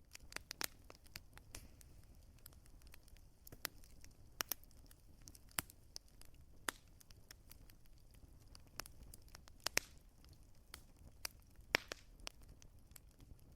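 Wood fire crackling: irregular sharp pops and snaps over a soft, low rumble of the flames, with a couple of louder pops about two-thirds of the way through.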